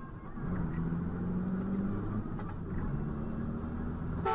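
Motor vehicle engine running with a steady low hum that comes in about half a second in.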